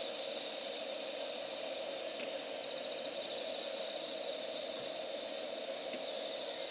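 Steady high chirping of insects, crickets or similar, with a lower steady drone under it. A faint pop or two comes from the wood campfire.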